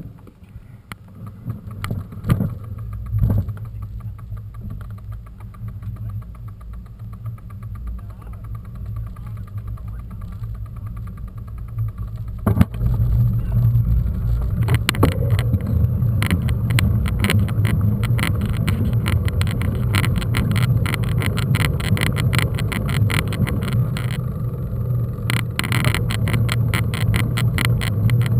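Mountain bike riding over a rough dirt trail: low wind rumble on the camera's microphone with a dense clatter of bumps and rattles. It gets louder and busier about halfway through as the pace picks up.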